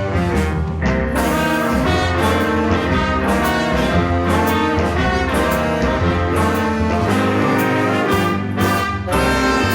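Student jazz band playing a Christmas tune, with a brass section of trombones and trumpets carrying the melody over bass and drums.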